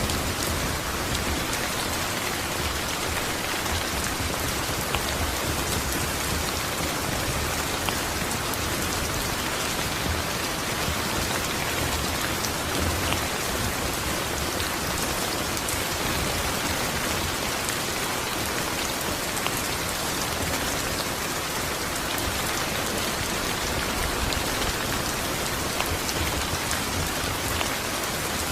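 Steady, even rainfall, with the patter of drops falling on a surface.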